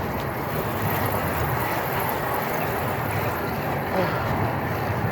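Steady rushing noise of road traffic, heard while cycling along a busy road.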